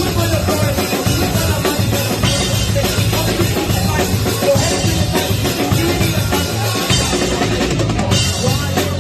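Live rock band playing, with the drum kit to the fore: bass drum, snare and rimshots over electric bass and guitar.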